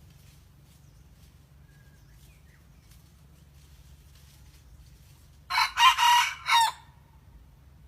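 A junglefowl rooster crows once, a short crow in four quick clipped parts about five and a half seconds in.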